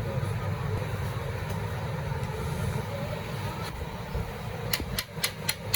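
Steady low engine rumble, with a quick run of about six sharp clicks, roughly four a second, near the end.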